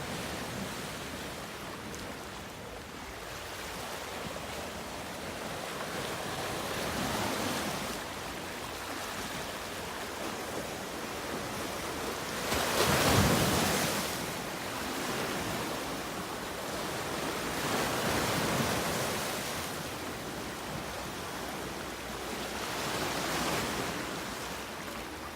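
Surf washing onto a beach, swelling and falling back about every five seconds, the biggest wave breaking about halfway through.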